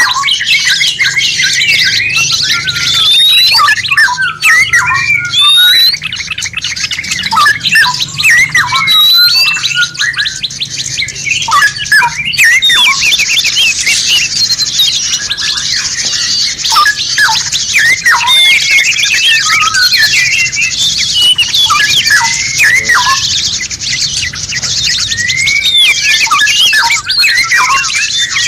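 Many songbirds calling and singing at once: a dense, busy mix of overlapping chirps, whistles and squawks from several species, as used in a songbird 'masteran' training recording.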